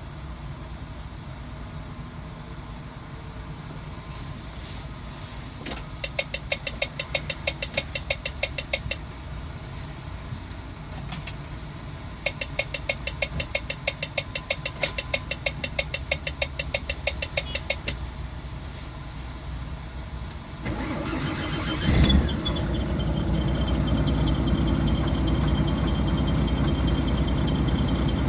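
Heavy machine engines: one running steadily low throughout, joined by two runs of rapid even clicking like a starter cranking, then a second engine starting about three-quarters of the way through, with a loud surge as it catches and then running louder.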